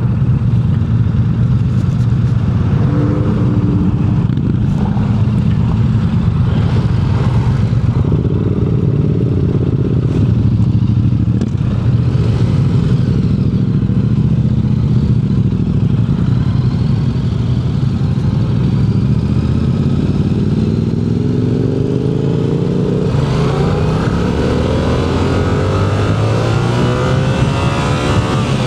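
Motorcycle engine running steadily while riding, then accelerating in the last several seconds, its pitch climbing.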